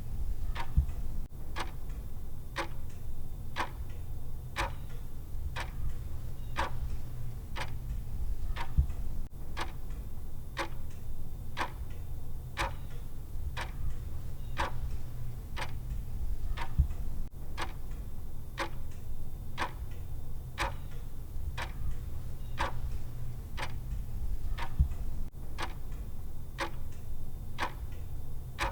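Countdown timer's clock tick sound effect, ticking steadily about once a second over a low, steady hum.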